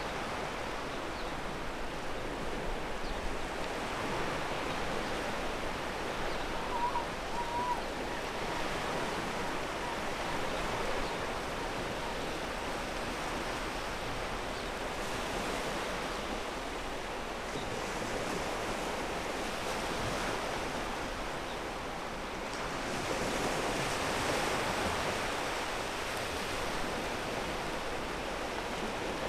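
Ocean waves breaking and washing on a pebble beach, a continuous surf with one wave swelling louder about three-quarters of the way through.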